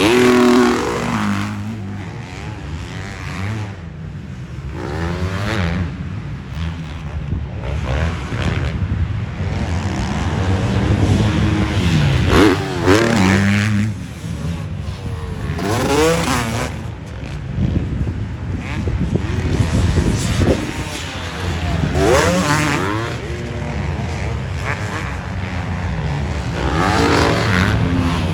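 Several motocross bikes racing on a dirt track, their engines revving up and dropping back again and again through gear changes. The engines swell and fade as bikes pass close by every few seconds.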